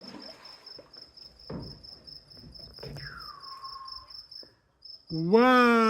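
Crickets chirping in a steady, evenly pulsed high trill, with a few soft knocks and a falling whistle-like tone about three seconds in. About five seconds in, a person's long, drawn-out 'wow' comes in loudly over them.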